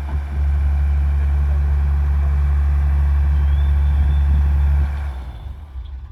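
Heavy diesel engine running steadily with a deep drone, which drops away and fades about five seconds in.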